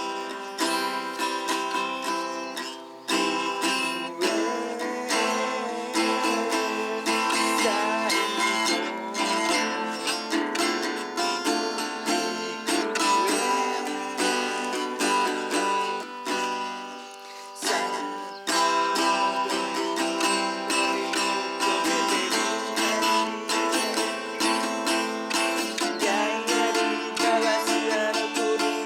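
Acoustic guitar music, picked and strummed, with no clear voice.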